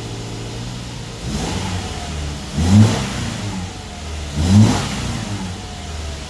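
Subaru Forester's flat-four boxer engine idling, then revved twice in quick succession, settling back to idle after each rev.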